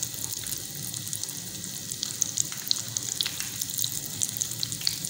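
Breaded kidney-bean kebabs shallow-frying in hot oil in a nonstick pan: a steady sizzle with scattered crackling pops, as the patties are turned over.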